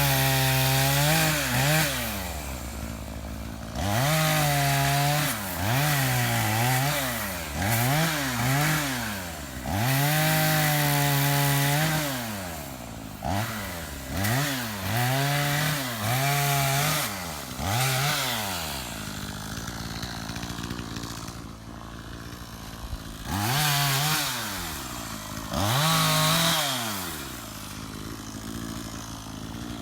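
Chainsaw revving up and down over and over, held at full throttle for a second or two at a time. About two-thirds of the way through it drops to idle, with two short revs near the end.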